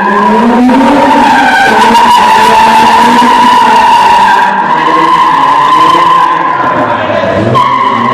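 Mazda RX-8 tyres squealing steadily under wheelspin, with its two-rotor Renesis rotary engine running hard underneath. The engine note dips briefly near the end and then picks back up.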